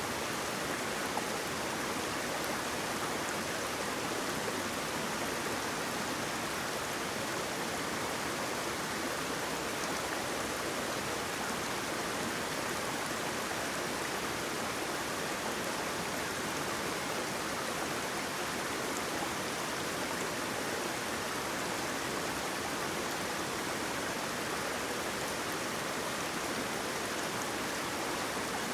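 Waterfall running in a steady, even rush of water, with no breaks or changes.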